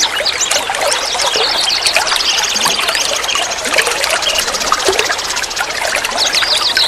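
Water trickling and gurgling steadily as it flows, with many small bubbling splashes. High, rapid chirping trills run over it throughout.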